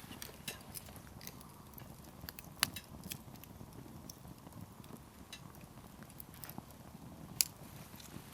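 Wood campfire crackling: firewood snapping and popping at irregular moments over a soft low background, with two loudest pops about two and a half seconds in and near the end.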